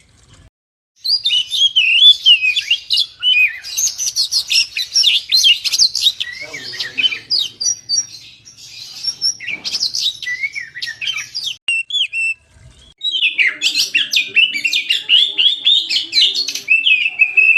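Oriental magpie-robin (kacer) singing a loud, fast, varied song of whistles and chattering phrases, broken by short pauses.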